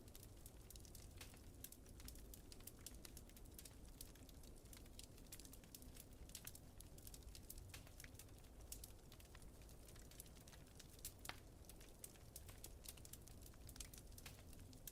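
Wood fire crackling: irregular small pops and snaps, with a slightly louder pop about 11 seconds in, over a faint low rumble of wind.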